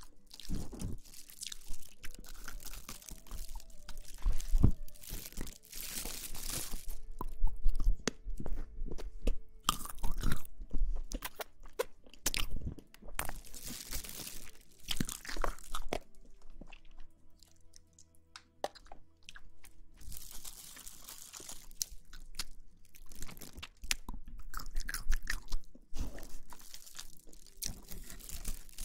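Close-miked ASMR crunching and rustling: irregular bursts of crisp, crackly noise, with a quieter lull about two-thirds of the way through.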